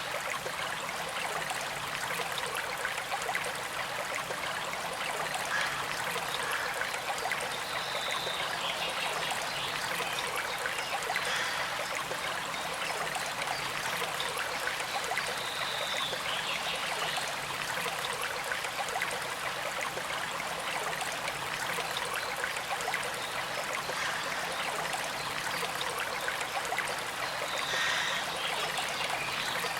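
Shallow stream flowing and trickling in a steady, even rush, with a few brief brighter spots in the water sound now and then.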